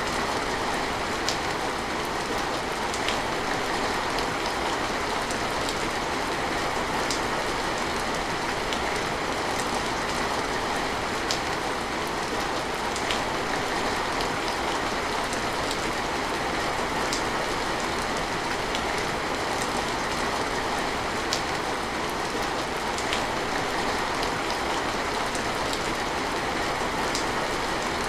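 Steady rain falling, with scattered light drop ticks.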